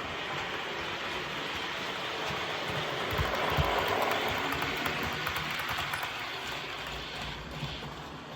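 Model Class 37 diesel running at high speed under DCC sound, its sound decoder playing the engine working hard through the loco's small speaker, mixed with the wheels running on the OO gauge track. It grows louder about three seconds in, with a few low knocks, then eases back.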